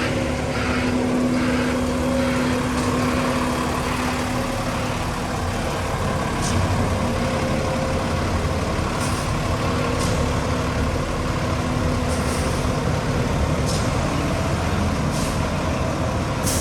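Concrete mixer truck's engine running steadily, with several short hisses in the second half.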